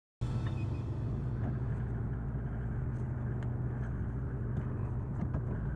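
Car engine idling, heard from inside the cabin: a steady low hum with a few faint clicks.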